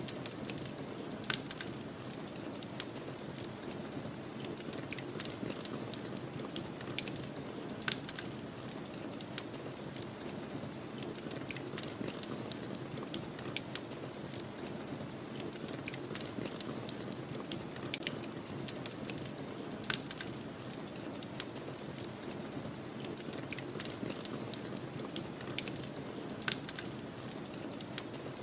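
Wood fire crackling, with frequent irregular sharp pops and snaps, over a steady low rush of snowstorm wind.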